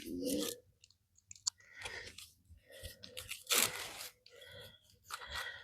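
Scattered crunching and scraping as a plastic electrical plug housing is handled and pressed closed over its wires, with one louder scrape about three and a half seconds in.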